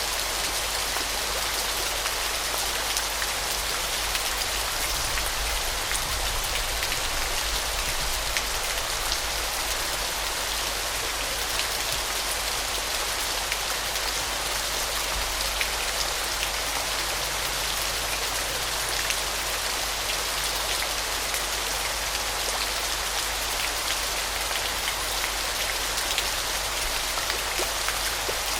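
Falling water splashing steadily: an even hiss, strongest in the upper range, flecked with fine droplet ticks and with little low rumble.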